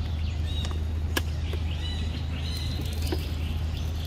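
Birds chirping in short high calls over a steady low rumble, with one sharp click about a second in.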